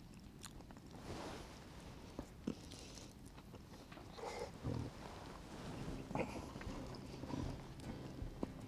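A person eating quietly: soft chewing with scattered small clicks and taps.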